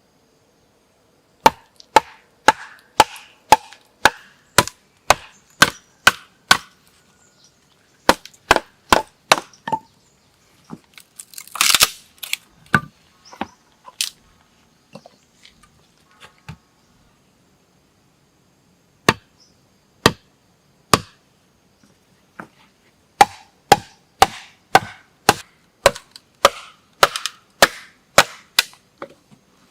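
Wood being chopped with a blade: a run of sharp strikes about two a second, a pause with a short rustle and a few single blows, then another steady run of strikes near the end.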